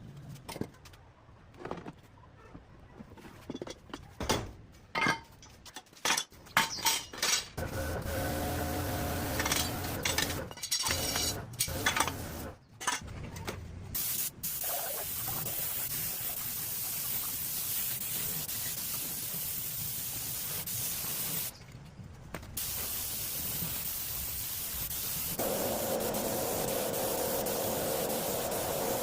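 Paint spraying with a steady hiss, broken once by a short pause about three quarters of the way through. Before it come scattered clicks and knocks.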